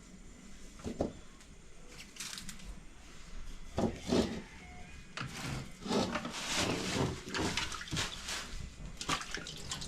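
Water being poured and sloshed in a pot or basin, with a few knocks of the vessel.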